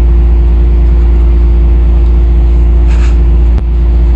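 A running engine: a loud, steady low rumble with a constant hum. A single short click comes about three and a half seconds in.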